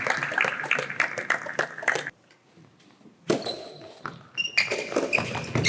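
Scattered clapping dying away, then a soft-tennis ball striking the floor of an indoor court, with short high sneaker squeaks on the court surface near the end.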